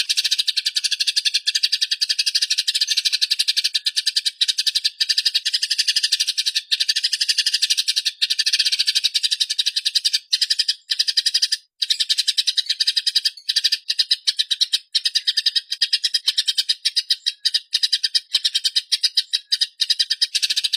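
Eurasian tree sparrows chattering in a fast, almost unbroken stream of rapid chirps, with only a few brief gaps. This is the agitated chatter of sparrows fighting.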